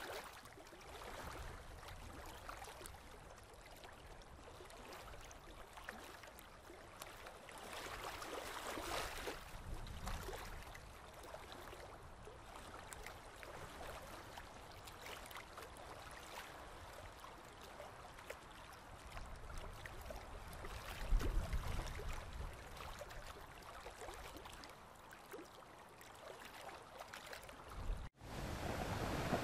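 Faint steady rushing noise with a low rumble swelling about twenty-one seconds in; it cuts off suddenly near the end.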